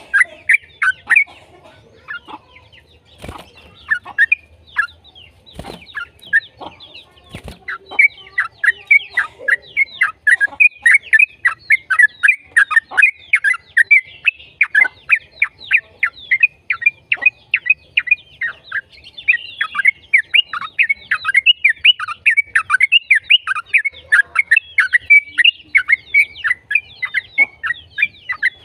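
Yellow-vented bulbul (trucukan) singing a long, fast chattering song of short falling notes. The notes are scattered at first, with a few sharp clicks, then run as a dense, unbroken stream from about eight seconds in.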